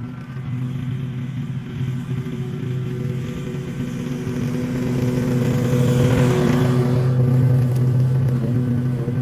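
An engine running steadily, getting louder, with more hiss, from about five seconds in.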